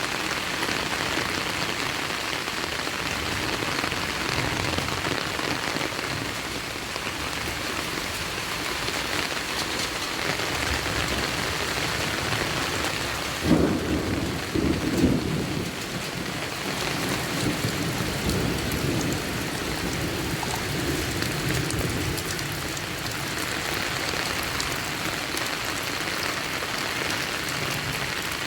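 Heavy rain falling steadily in strong wind. About halfway through comes a louder low rumble lasting about two seconds.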